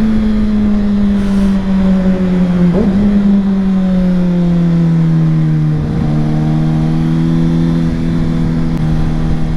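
Kawasaki ZX-6R 636's inline-four engine running steadily at road speed, heard from the rider's position; its pitch steps down twice, about three and six seconds in, as the rider shifts up a gear.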